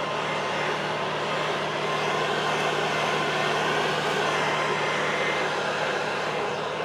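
Leaf blower running steadily: an even rush of air over a steady engine hum.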